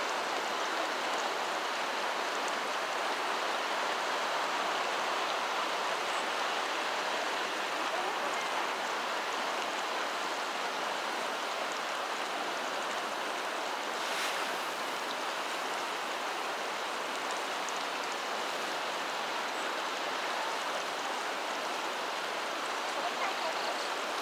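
Steady rushing of water, unbroken and even, with a faint click about halfway through.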